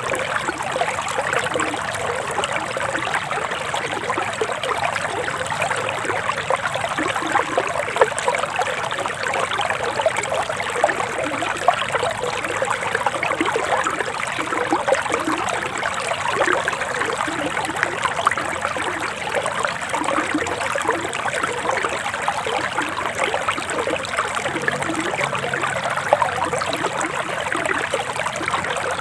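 Forest river flowing steadily, its water trickling and splashing in an even, continuous rush.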